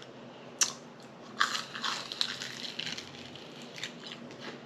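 Crunchy bites of food and chewing close to the microphone, with a sharp crack about half a second in and a spell of crisp crunching in the middle.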